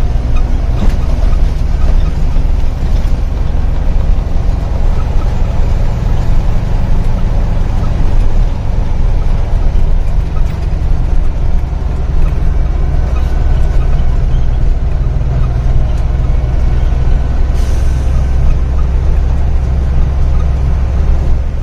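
Truck's diesel engine and road noise, a steady low rumble while driving at speed, with a brief hiss about three-quarters of the way through.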